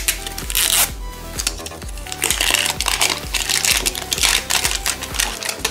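Thin plastic wrap being peeled and crinkled off a toy surprise ball in several short crackling bursts, over background music with short plucked-sounding notes.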